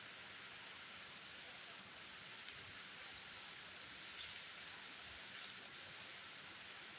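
Faint, steady outdoor hiss with a few brief light rustles, one a little past halfway and one near the end.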